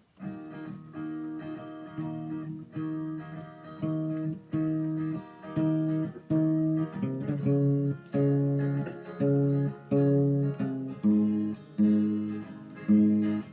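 Acoustic guitar strummed in a steady rhythm, an instrumental intro before the singing, with the chord changing about halfway through and again near the end.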